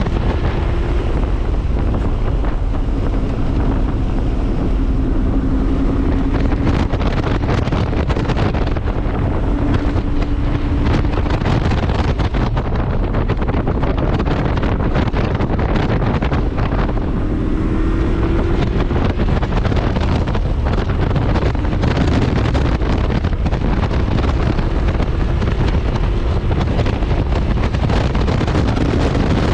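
Heavy wind buffeting on the microphone over a modified 2001 Subaru 2.5RS's flat-four engine, whose note falls and rises several times as the car is driven.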